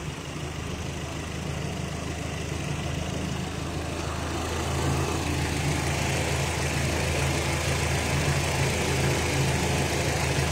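A vehicle engine idling steadily, growing a little louder about five seconds in.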